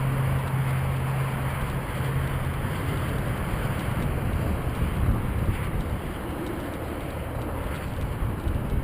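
Wind rushing over an action camera's microphone while riding a bicycle, with rumble from the ride, as a continuous even rush. A low steady hum fades out in the first couple of seconds.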